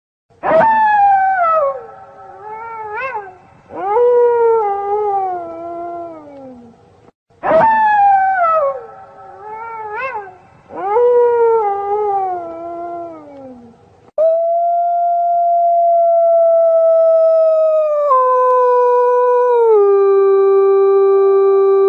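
Wolves howling: two matching passages of sudden, falling, wavering howls, the second a repeat of the first. Then a single long howl held on one pitch, dropping lower twice near the end.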